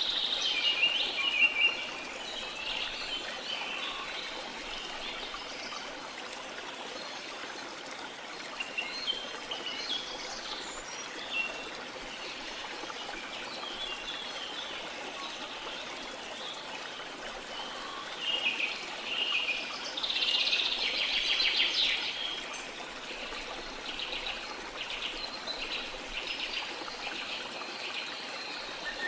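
Steady rush of waterfall water with rainforest birds chirping and singing over it in short flurries. The calls are busiest about a second in and again around two-thirds of the way through.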